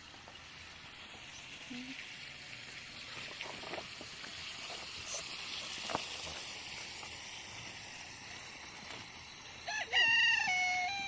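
A rooster crowing once, starting about ten seconds in: a loud, drawn-out call that steps down in pitch. Before it, only a faint steady hiss.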